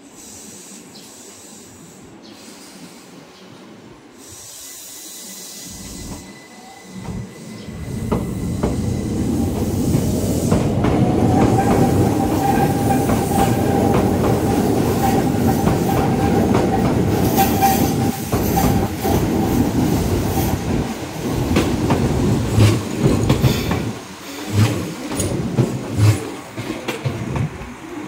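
Keihan electric train approaching and passing close, its wheels giving a steady squeal on a curve for about ten seconds mid-way, then clattering over rail joints and points near the end.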